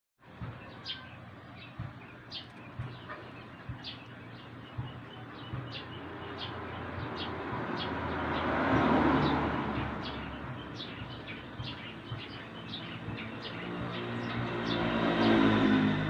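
A small bird chirping repeatedly in short high notes, over a low hum and two slow swells of rushing noise that build and fade, the first peaking about halfway through and the second near the end.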